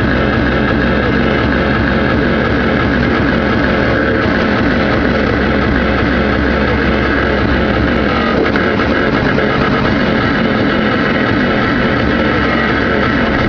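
Diesel engine of a Volvo ECR88 Plus excavator running steadily while it works, a continuous low engine sound with no sharp knocks or changes.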